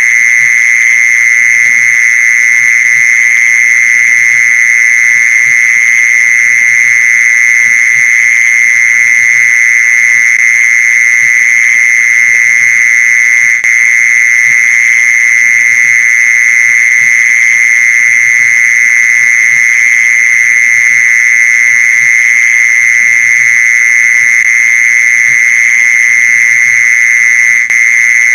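Mole cricket song: one continuous, unbroken buzzing trill held at a steady high pitch, very loud, with brief dips about halfway through and near the end.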